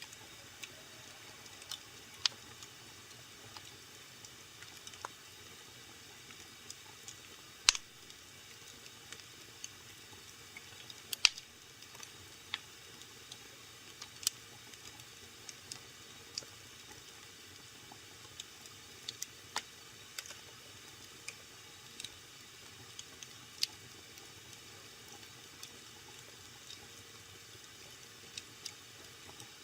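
Wood fire in a fireplace burning with a soft steady hiss and irregular sharp crackles and pops, a few much louder pops standing out.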